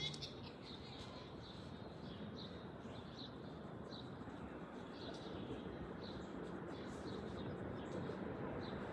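Small birds chirping, short high calls repeated about twice a second, over a steady low outdoor background rumble.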